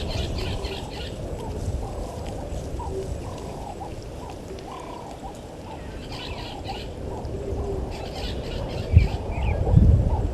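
Wild birds calling at a bush waterhole: short, repeated notes with clusters of high chirps at the start, around the middle and near the end. Under them runs a steady low rumble, which swells near the end with a sharp thud about nine seconds in.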